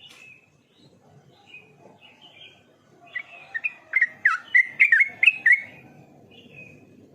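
Yellow-vented bulbul (trucukan) singing: a few soft calls, then from about three seconds in a loud run of quick, clear notes with sharp downward sweeps lasting about two and a half seconds, then softer calls again.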